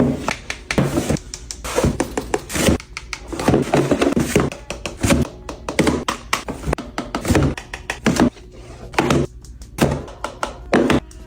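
Irregular thunks and taps of objects being handled and set down, over background music.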